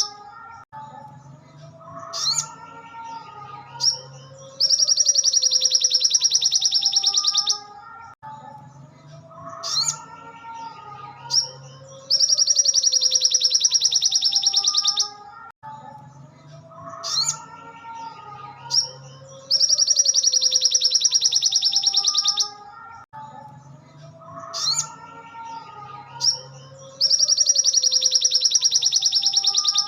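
Sogon (crimson sunbird) song on a repeating loop: a loud, very fast, high trill lasting about three seconds comes back roughly every seven and a half seconds. Between the trills are softer twittering notes and a few short, sharp chirps.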